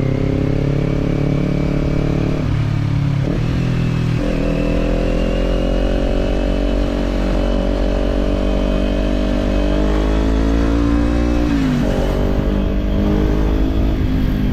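Kawasaki parallel-twin motorcycle engine pulling under throttle, its note climbing steadily. The note breaks and drops about two and a half to four seconds in, and again near twelve seconds, as gears change.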